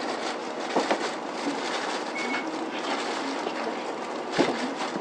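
Cabin of an Isuzu Erga city bus standing at a stop: steady background noise with a few knocks, the loudest about four seconds in, and one short high beep about two seconds in.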